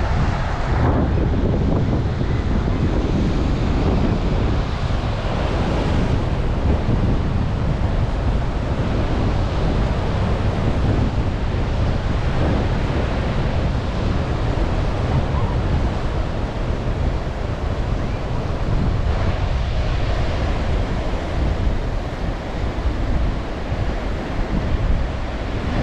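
Strong wind blowing across the microphone, with a low rumble, over Baltic Sea surf washing onto the beach.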